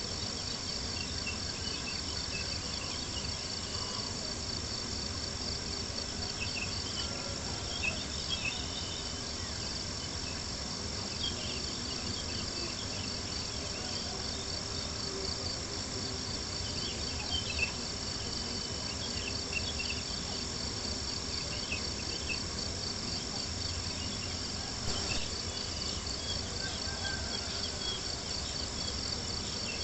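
Crickets chirping steadily in a fast, even trill, with a campfire crackling and popping now and then, a few sharper pops standing out.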